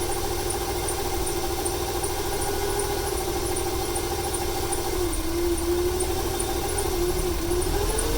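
Ford 300 cubic-inch (4.9 L) inline-six engine running at idle, with a steady whine that dips about five seconds in and rises near the end. The engine has over 400,000 miles on it and is misfiring; the owner wonders whether it is a fuel or a timing issue.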